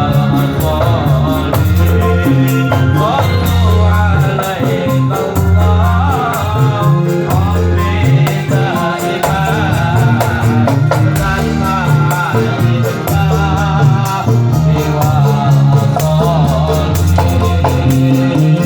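Rebana modern group performing: a voice singing a wavering, ornamented melody over frame-drum hits and sustained low bass notes.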